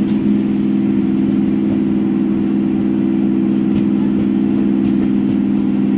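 Moving passenger trains running side by side: a steady, even hum with a low drone of several tones under a rushing noise, with a few faint clicks.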